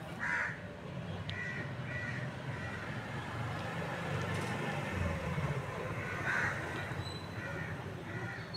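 A bird calling in short notes: one louder call followed by two or three softer ones, then the pattern again about six seconds in, over a steady low background hum.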